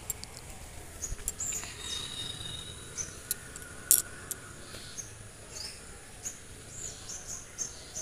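Outdoor ambience of small birds chirping in short, high calls over a faint steady background, with a thin, steady high tone for about a second near the start and a sharp click about four seconds in.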